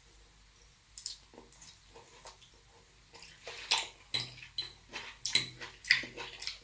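Close-miked eating sounds of a large burrito: wet, crackly chewing and mouth noises, sparse at first, then denser and louder from about halfway, with a chewing rhythm of roughly two a second.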